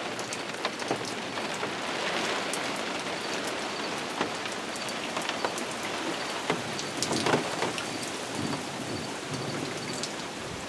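Heavy downpour: a steady hiss of rain with many scattered sharp drop ticks, and rain pouring off the edge of an awning.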